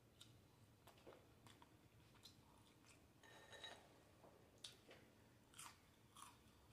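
Faint, close-up chewing and wet mouth smacks of someone eating soft french fries, in scattered short clicks with a few louder smacks toward the end.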